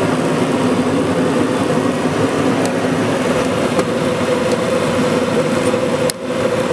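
Mr. Heater 60,000 BTU propane forced-air heater running lit: its electric fan and burner make a steady hum and rush. There is a brief click and dip in level about six seconds in.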